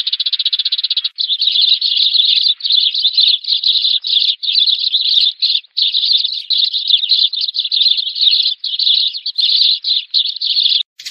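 Sparrows chirping in a rapid, continuous chatter: a sparrow flock call of the kind used as a trapping lure, in bursts under a second long with short breaks. A lower, buzzier chatter drops out about a second in.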